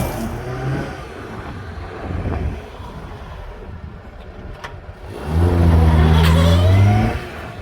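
Seat Fura 900GL's small four-cylinder engine running at low level, then revving loudly from about five seconds in, its pitch climbing for over a second before it drops back.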